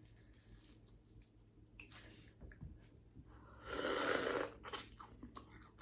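Mouth sounds of a person eating snow crab: faint chewing and small wet clicks, then a loud slurping suck lasting about a second, partway through.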